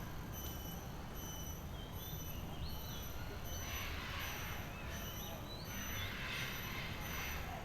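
Birds calling in the background, a few short chirps over a steady low rumble.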